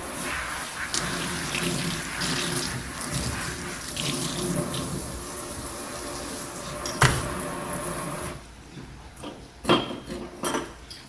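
Tap water running into a sink while dishes are washed, with a sharp clink about seven seconds in. The water cuts off after about eight seconds, followed by a few sharp clinks of dishes.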